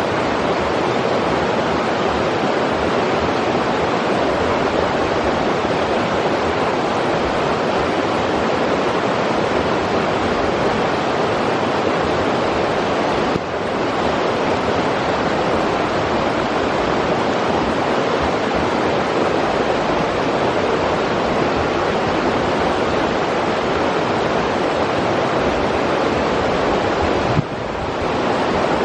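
River water rushing steadily, an even wash of noise that dips briefly twice.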